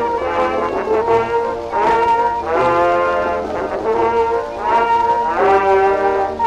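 Acoustically recorded 78 rpm record of a small dance orchestra playing a one-step, with brass carrying the melody in held and moving notes. The sound is thin, with little bass or treble.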